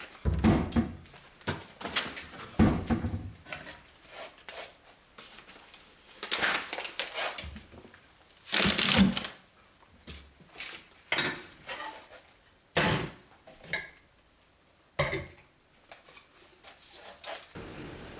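Cleaning and tidying sounds: an irregular run of knocks, clatters and short rustling rushes as household objects are handled and set down. About halfway through there is a longer, louder rush lasting about a second.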